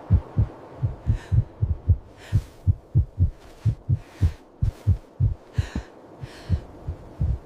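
Heartbeat sound effect: low thumps in pairs, a little over one pair a second, with several short breathy hisses over it.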